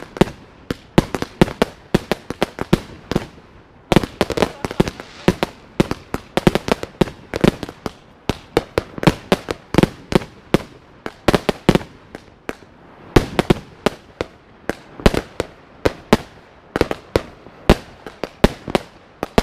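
Consumer firework batteries (cakes) firing a rapid string of shots, several a second, with the bursts popping and crackling. There are two brief lulls, about a third of the way in and about two-thirds in.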